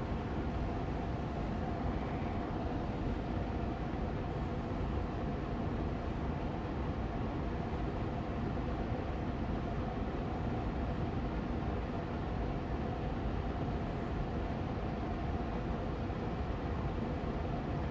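Air purifier fan running steadily on medium speed: an even rushing hum of moving air with a faint steady tone in it.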